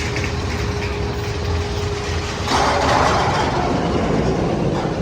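Steady low rumble of a roller coaster train running on its track, joined about halfway through by a louder rushing noise lasting about two seconds.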